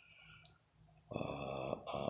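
A man's voice holding a drawn-out 'uhh' while searching for a word, starting about halfway through, after a faint rustle and a small click.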